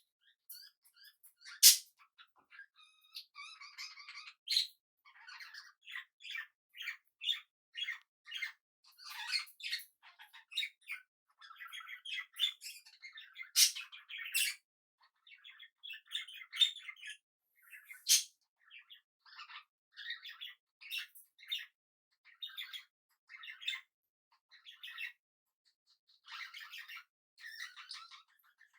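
Pet budgerigars chirping and chattering in a continuous run of short calls, with a few louder, sharper calls about two, fourteen and eighteen seconds in.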